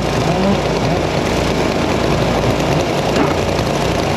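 Steady, loud din of several small engines running at once, a mix of chainsaws and log splitter engines, none standing out on its own.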